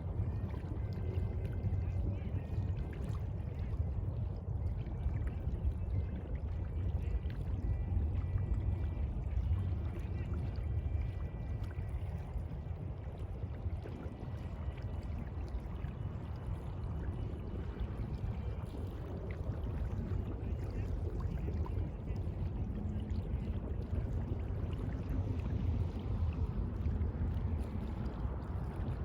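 Sea water washing and churning steadily, deep and full in the low end, with faint thin high tones in the first half.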